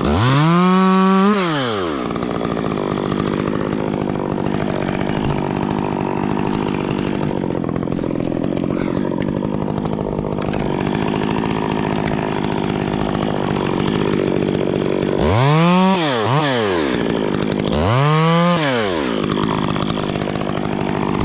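Chainsaw idling, revved up and back down briefly at the start, twice in quick succession about fifteen seconds in, and once more near the end.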